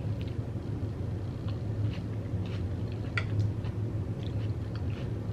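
A person chewing a mouthful of Xxtra hot Cheeto taco bowl, with scattered crunches as the Cheetos break; a steady low hum runs underneath.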